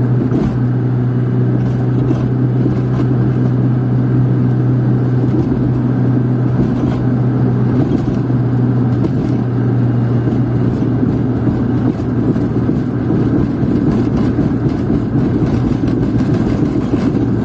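Steady road noise of a car being driven, heard from inside: a constant low engine hum under an even rush of tyre and road noise.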